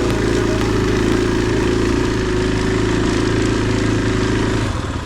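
Single-cylinder 500 cc enduro dirt bike engine running at steady low revs, its note dropping off just before the end.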